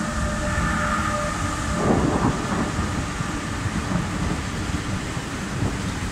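Renfe class 253 Bombardier TRAXX electric locomotive passing with a freight train: a steady electric whine from the locomotive stops about two seconds in, and the heavy rumble of the freight wagons rolling by follows.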